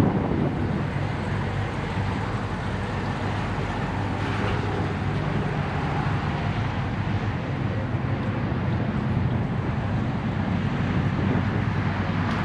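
A vehicle engine running steadily with a low rumble, amid outdoor traffic noise.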